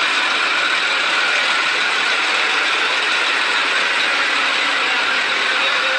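Volvo truck's diesel engine running steadily, with a dense, even mechanical clatter.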